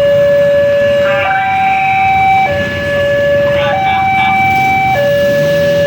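Railway level-crossing warning alarm sounding its two-tone signal: a lower and a higher steady tone alternate, each held for about a second and a quarter.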